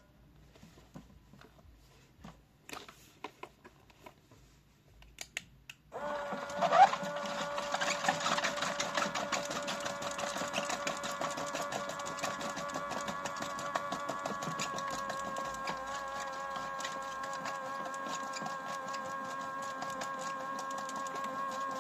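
Toy washing machine: a few light clicks and taps, then about six seconds in its small electric motor starts and runs steadily, a whine with a light rattle as the drum turns.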